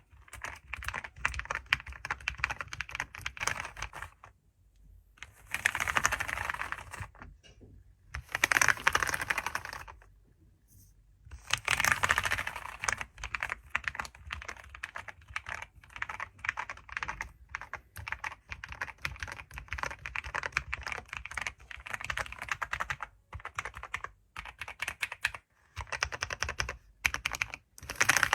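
Computer keyboard being typed on: rapid runs of keystrokes broken by short pauses, with several louder, faster flurries.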